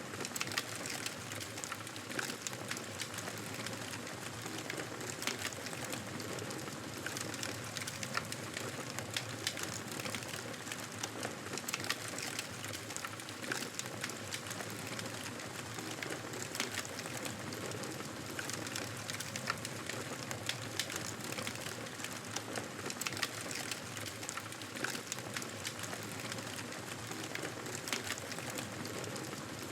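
Fire burning in a fireplace: a steady hiss of flames with frequent, irregular sharp crackles and pops.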